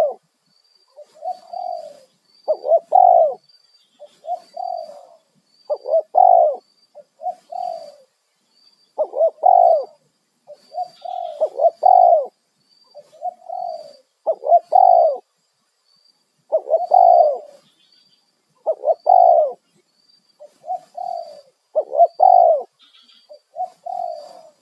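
Spotted dove cooing over and over in short phrases of a few coos each, a phrase every second or two. A faint, high chirp repeats steadily in the background.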